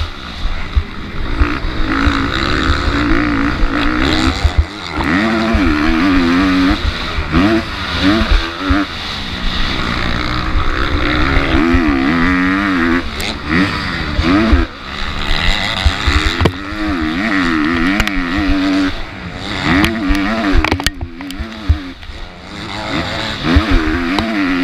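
MX2 motocross bike engine racing, its revs climbing and dropping again and again, over a steady low rumble with scattered sharp knocks.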